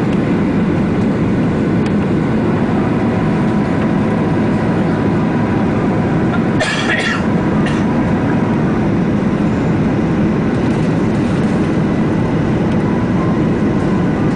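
Steady cabin noise of an airliner in flight: the even, low rush of the engines and airflow heard inside the passenger cabin. A brief noisy rattle sounds about seven seconds in.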